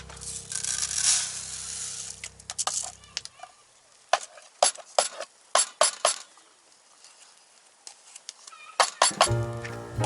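Background music for about the first three seconds over a hiss, then a quiet stretch of sharp clicks and clinks, clustered about four to six seconds in, before the music comes back near the end.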